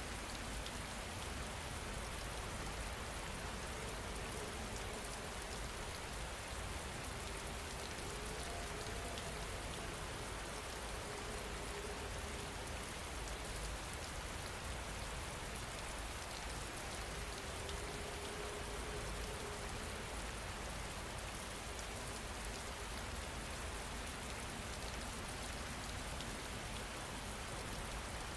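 Steady rain falling, an even hiss of drops with no change in strength. A faint wavering tone comes in briefly twice near the middle.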